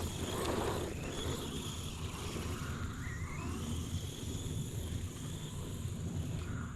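Brushless electric motor of a 1/10-scale RC desert truck whining, its pitch gliding up and down with the throttle, over a low wind rumble.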